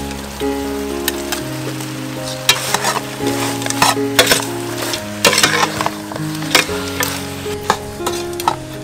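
Raw chicken pieces dropped into a metal pot of spice paste frying over a fire, then stirred with a metal ladle: sizzling, with repeated sharp scrapes and clinks of the ladle against the pot. Soft background music with held notes plays underneath.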